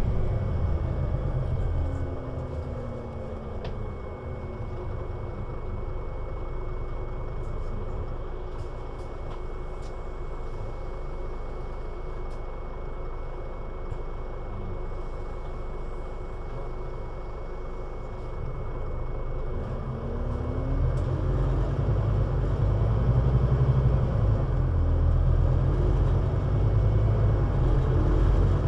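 Scania CN320UA city bus's diesel engine: it drops back and winds down about two seconds in, runs steadily at a low, even level with a steady high whine, then picks up again about twenty seconds in, rising in pitch and getting louder as the bus pulls away.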